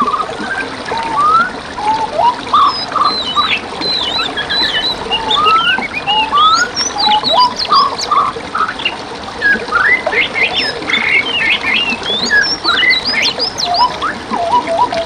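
Dense chorus of songbirds chirping and whistling in many quick rising and falling notes, over a steady hiss of flowing water.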